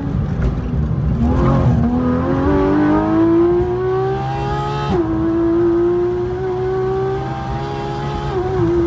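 Porsche 911 GT3 RS's naturally aspirated flat-six accelerating hard at full throttle. The revs climb steadily, drop sharply at an upshift about five seconds in, climb again in the next gear and drop at another upshift near the end.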